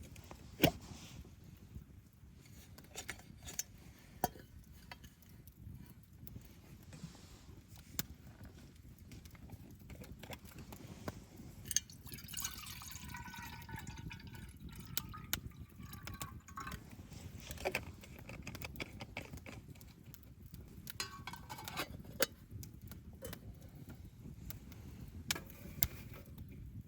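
Wood fire crackling in a small wood stove, with scattered sharp pops over a steady low rumble. About twelve seconds in comes a hiss of several seconds with a falling tone in it, like liquid being poured.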